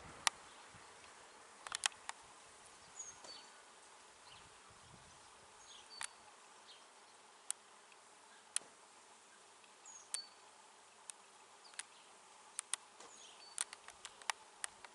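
Bees buzzing, faint and steady, with scattered sharp clicks throughout and brief high chirps now and then.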